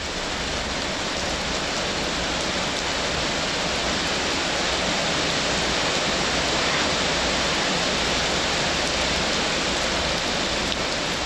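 Heavy tropical rain pouring down steadily, an even hiss of water on surfaces.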